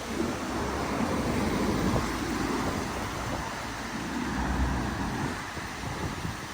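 Town street ambience: road traffic going by, with wind buffeting the microphone.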